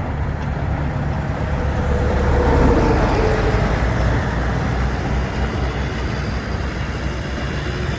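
Diesel engine of a 1997 Volvo day-cab truck running with a steady low rumble. It swells briefly about two to three seconds in.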